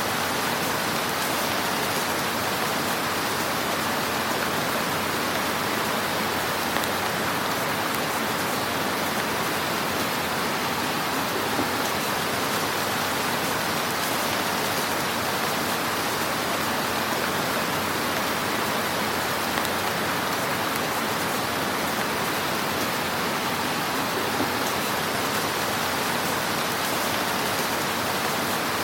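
Wood fire crackling in a fireplace: a steady, dense hiss of small crackles with a few louder pops.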